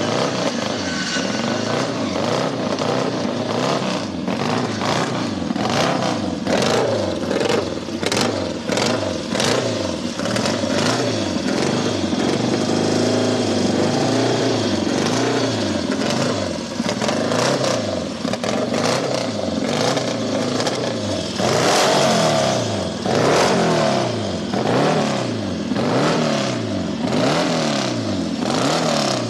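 1967 Triumph Daytona's 500 cc parallel-twin engine running and being revved over and over, its pitch rising and falling with each blip of the throttle. The biggest revs come about two-thirds of the way through.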